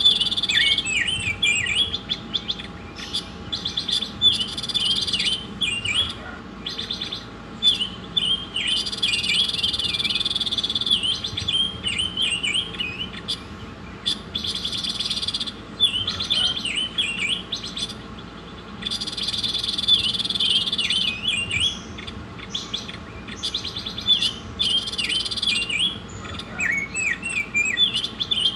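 A songbird singing a repeated song, with long buzzy trills alternating with runs of quick, sharp chirps. The song is played as a masteran, a training recording for songbirds to copy.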